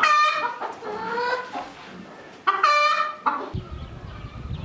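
Chickens calling: two loud, drawn-out calls about two and a half seconds apart, the first sliding down in pitch, then a short squawk. A low rumbling noise sets in near the end.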